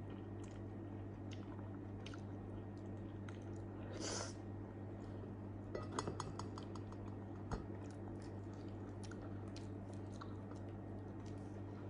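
Close-up wet chewing of soft grilled eggplant, with small scattered mouth clicks, a short hiss about four seconds in and a quick run of clicks a couple of seconds later, over a steady low hum.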